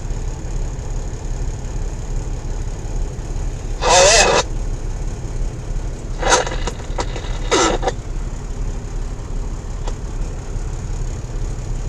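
Peterbilt 379 truck's diesel engine running steadily, heard as a low rumble inside the cab. Three brief voice-like sounds come over it about a third and two thirds of the way in.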